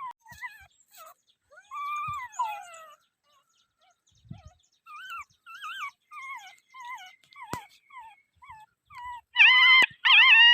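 Dog whining: a long run of short, wavering, high-pitched whimpers, turning into a louder, drawn-out whine near the end.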